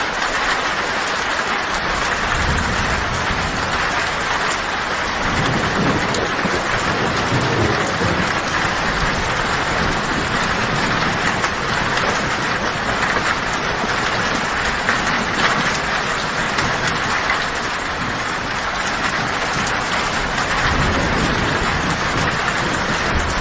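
Heavy rain falling steadily on a tin roof, with thunder rumbling low in the background; the rumble swells a couple of times, most strongly a quarter of the way in and again near the end.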